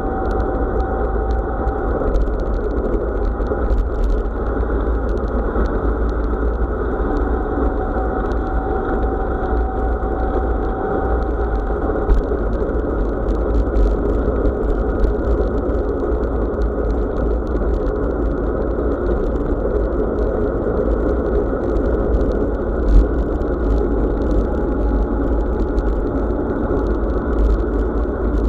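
Wind buffeting an action camera's microphone over the rumble of bicycle tyres on a forest road, steady and muffled, with scattered small knocks.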